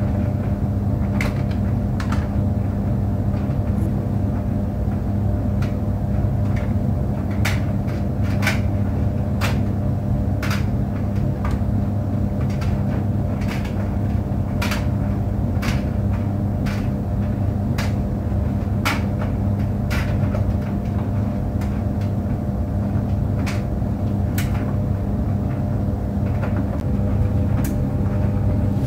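Tumble dryer running with a steady low hum, with irregular light knocks about once a second as things tumble against the drum.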